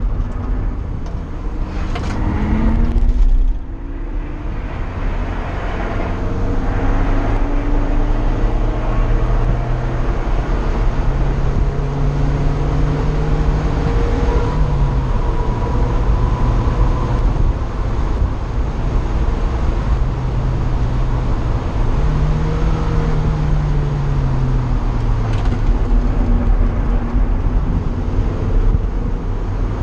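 Car engine heard from inside the open cockpit at track speed, its note climbing and falling several times as the car accelerates and shifts or slows, over steady wind and road noise. The loudness drops suddenly about three and a half seconds in.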